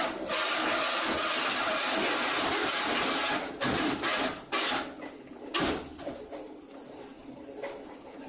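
Truck tire sidewall cutting machine at work: a loud hiss for about three seconds, then several short, sharp bursts of noise, after which it goes quieter.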